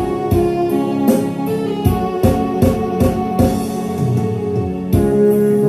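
Instrumental break of a Korean song's backing track: keyboard and guitar over a steady drum beat.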